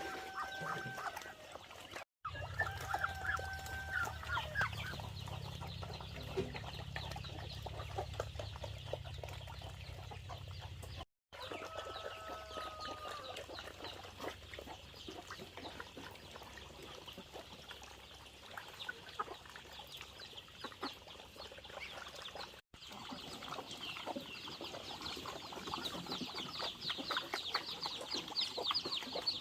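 Chickens clucking and calling, with a low hum under the first third. The sound breaks off briefly three times.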